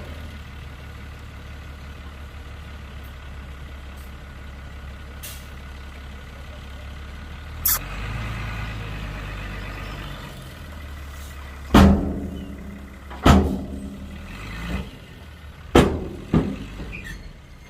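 Heavy diesel earthmoving machinery running steadily, with a short sharp hiss about eight seconds in and four loud metallic bangs in the last six seconds.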